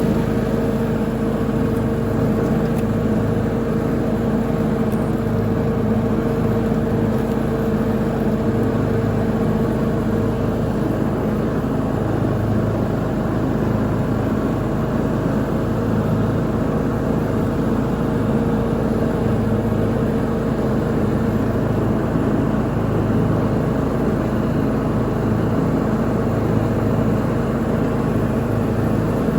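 Lawn mower engine running steadily under load while mowing.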